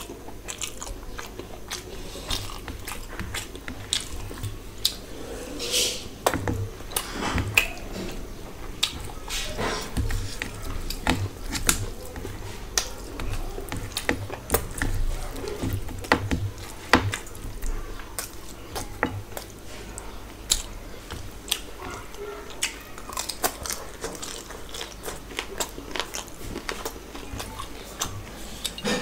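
Close-up chewing and wet lip smacking of a person eating rice with curry and fish by hand, in many irregular clicks and smacks.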